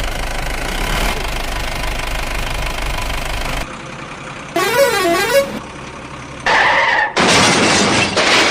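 Vehicle sound effects in sequence: a steady engine running with a low rumble, cutting off suddenly. Then a warbling tone rising and falling twice over about a second, a short horn blast, and a loud rushing noise near the end.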